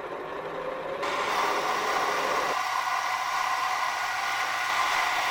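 Mini lathe running, building up over the first second and then running steadily, during a turning pass on a hard-steel bolt.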